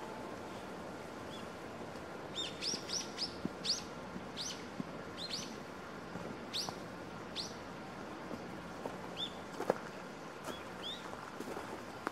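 A small songbird calling again and again: a dozen or so short, high chirps that each sweep upward, coming thick and fast from about two seconds in, then spacing out. One sharp click near the end stands out above the steady outdoor background.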